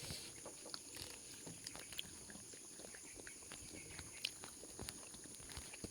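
A puppy chewing and crunching on corn: irregular small clicks and crunches, a few sharper ones.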